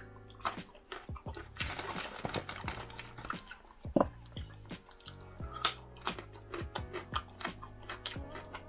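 Close-miked chewing and crunching of raw carrot sticks dipped in sauce, with a sharp click about four seconds in as the carrot is dipped in the sauce cup. Background music plays underneath.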